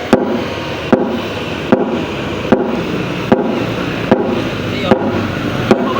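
Music played very loud through a large carnival sound system stacked with twelve subwoofers, a heavy beat hitting about every 0.8 seconds.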